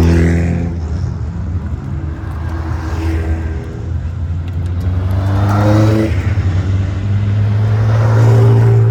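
Race cars pulling away one after another, engines revving up in turn over a steady low engine hum.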